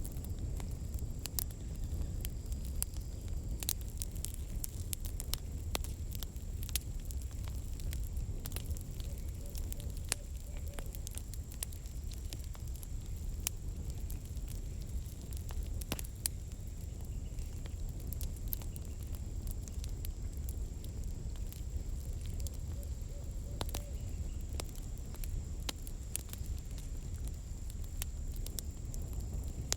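Campfire burning: firewood crackling with many scattered sharp pops over a low steady rumble.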